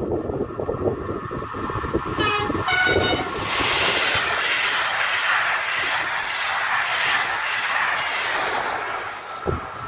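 A train passes on a main line. It gives two short horn blasts a little over two seconds in, then the loud rushing hiss of wheels on rail follows as it goes by, easing off near the end.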